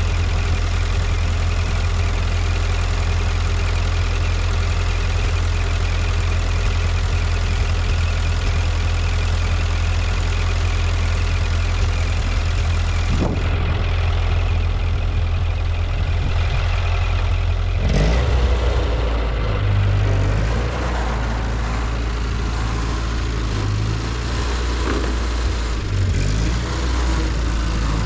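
Ford 9N/2N tractor's four-cylinder flathead engine running steadily; about two-thirds of the way through its note changes and it runs more unevenly after.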